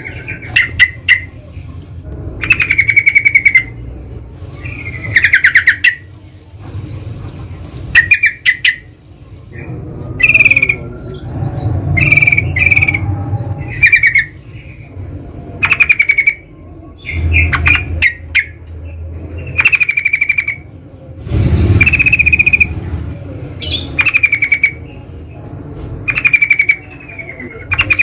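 Yellow-vented bulbul calling: short, loud chattering phrases repeated every one to two seconds, over a steady low rumble.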